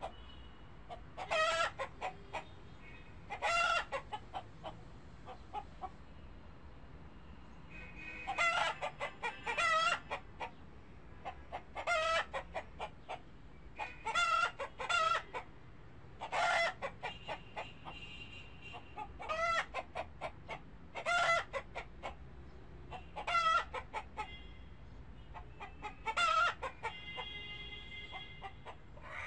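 A chicken calling: short, repeated calls every two or three seconds.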